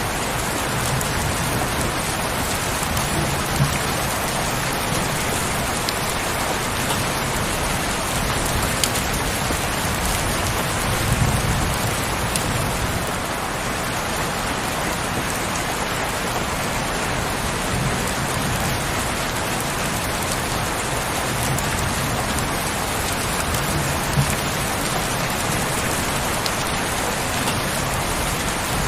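Heavy rain falling steadily as a dense, even hiss, with a few louder single drop hits now and then.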